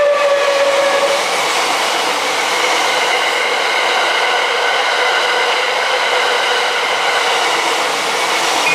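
The last held note of the TRAIN SUITE Shiki-shima's melody horn ends about a second in. After that the train runs past with a steady rolling noise of wheels on rails and faint steady high-pitched tones.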